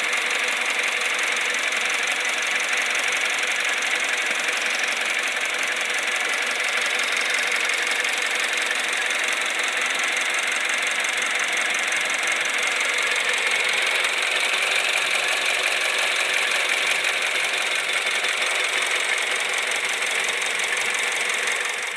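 Four-cylinder 1.4 petrol engine of an LPG-converted Opel Corsa E, idling steadily with no revving.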